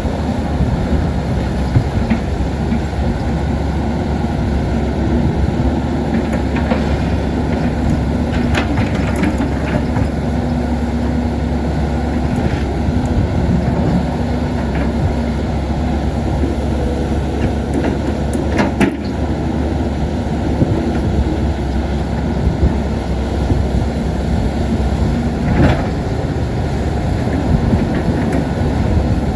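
Caterpillar 320D excavator's diesel engine running steadily under working load, with a few sharp clanks of the machine working among stones.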